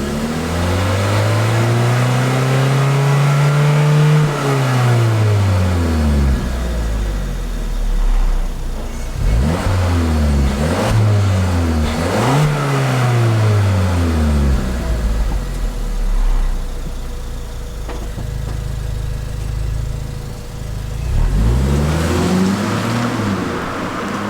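Suzuki Swift Sport ZC33S's 1.4-litre turbocharged four-cylinder free-revved while stationary, heard through its exhaust. One long rev is held for a couple of seconds and falls back, then comes a quick series of short blips, a spell of idle, and one more blip near the end.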